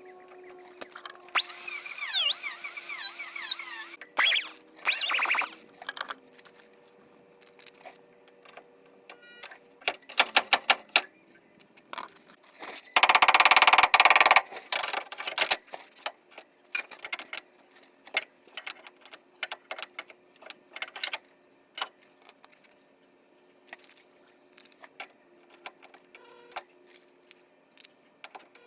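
Auto body work on sheet metal: several short bursts of a power tool, the first about two and a half seconds long with a wavering high squeal and a later one about two seconds long, among many sharp clicks and taps.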